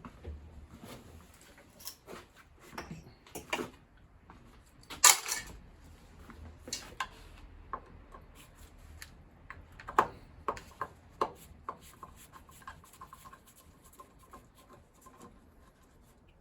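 Scattered clicks, taps and knocks of small metal boiler parts being handled and pulled apart during a scrap-out, with a sharper knock about five seconds in and another about ten seconds in.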